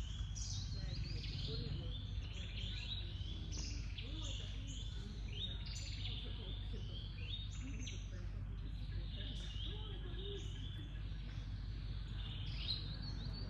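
Oriental magpie-robin singing: a continuous run of short, varied chirped and whistled notes, several a second, over a steady low background hum.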